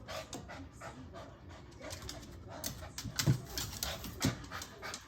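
A dog panting, among scattered short clicks and taps, with two louder short huffs in the second half.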